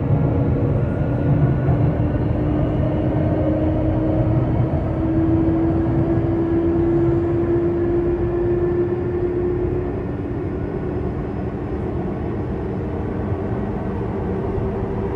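Sotetsu 8000 series electric train running at speed, heard inside motor car MoHa 8231: a steady rumble of wheels on rail under a traction-motor hum. The hum slowly rises in pitch and fades out about ten seconds in, and the rumble carries on a little quieter.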